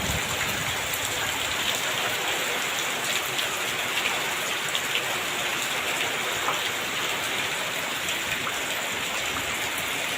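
Rain falling steadily: a dense, even hiss with scattered ticks of drops striking.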